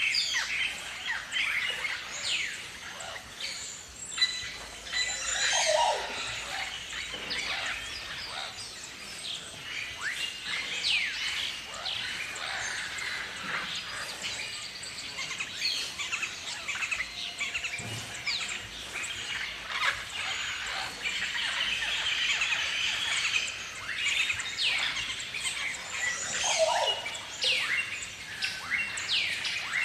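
A flock of galahs (rose-breasted cockatoos) calling, many short chirps and downward-sweeping calls overlapping, with no pause.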